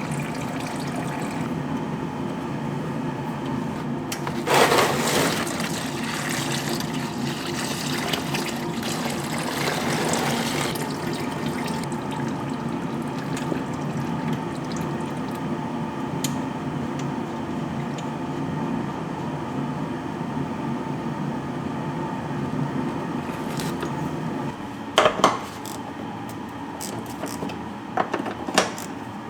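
Water running and splashing over a steady motor hum, with a louder rush of spray about four seconds in that lasts some six seconds. A few sharp clicks and knocks come near the end.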